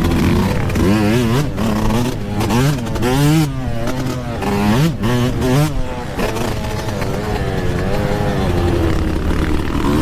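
Yamaha YZ125 125cc two-stroke single-cylinder engine revving, its pitch rising and falling sharply several times in the first six seconds and then holding steadier.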